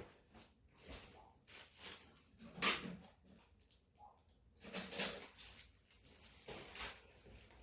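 Metal hand tools clinking and clanking as someone rummages for an end wrench, a handful of separate knocks and rattles, the loudest about five seconds in.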